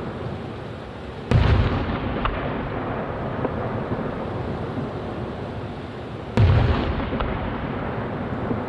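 Two aerial firework shells bursting, about five seconds apart, each a sudden loud boom that dies away in a rolling echo, over a steady background rumble with a few faint pops.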